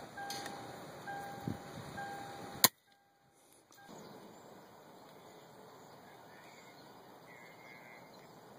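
A single sharp shot from an FX Impact .177 PCP air rifle about two and a half seconds in, followed by a brief drop to near silence before the outdoor background returns more quietly.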